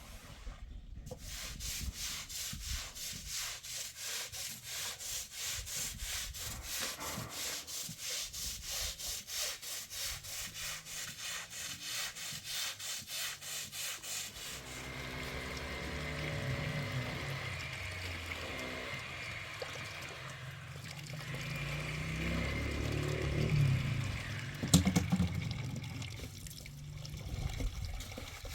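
A hand saw cutting with quick, even rasping strokes, about four a second, for the first half. Then the sawing stops and a steadier sound with a low hum follows, with one sharp click near the end.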